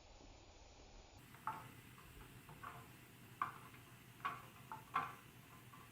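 Marbles clicking and clattering down a plastic TrixTrack marble run, in a series of short, irregular ticks that begin about a second in.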